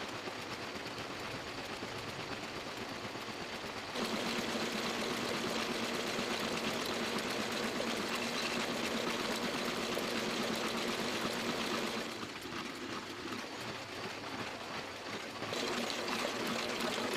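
Toko 810 small offset printing press running, a steady mechanical whir with a fast ticking. It gets louder about four seconds in, drops back briefly past the middle and rises again near the end.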